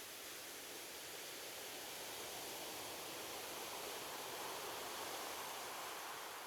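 Gentle ocean waves washing onto a shore: a steady hiss of surf that swells about four to five seconds in and then eases off.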